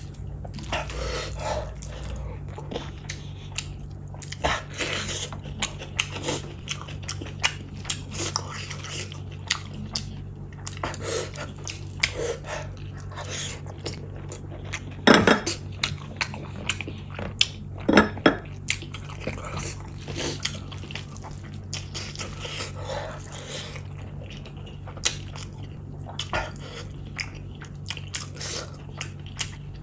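Close-miked wet chewing and mouth smacking of rice and gravy, with squelches of fingers mixing rice into the gravy on the plate. A steady low hum runs underneath, and a couple of louder sharp clacks come around the middle.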